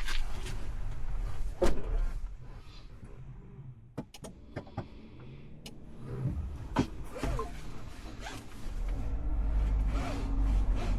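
Scattered clicks and knocks of handling inside a car cabin. About nine seconds in, a low steady rumble of the car running comes up.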